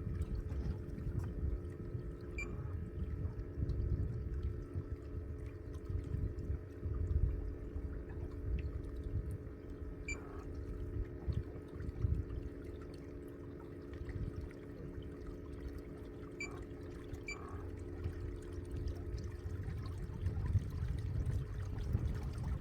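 A steady motor hum under continuous water splashing and sloshing, with an uneven low rumble and a few faint clicks.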